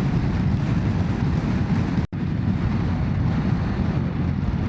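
Strong wind blustering on the microphone, a steady low noise, broken by a split-second dropout about two seconds in.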